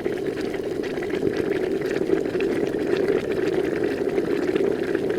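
Water boiling hard in a pot, a steady rolling bubble with many small pops.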